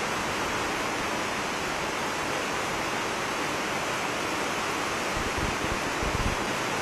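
Steady hiss of heavy rain falling, with a few low bumps near the end.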